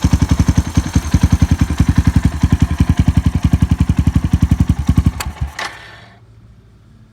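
Suzuki Grasstracker's air-cooled single-cylinder engine idling through a Supertrapp 4-inch megaphone full exhaust, firing in even pops about ten times a second. It is shut off about five seconds in and dies away within a second. The seller describes the engine as running with no abnormal noises.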